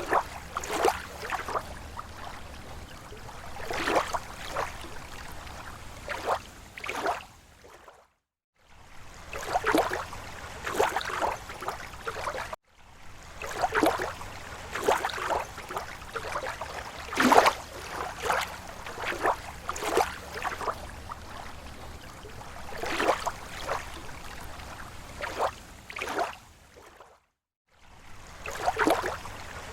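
Small waves lapping against a lake shore: irregular soft slaps and splashes every second or so over a low steady wash of water. The sound breaks off briefly to silence twice.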